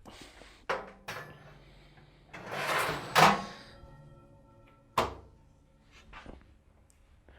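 Metal oven shelves being slid back into the oven's side runners: light clicks, then a scraping slide ending in a clunk about three seconds in, and another sharp clunk about five seconds in.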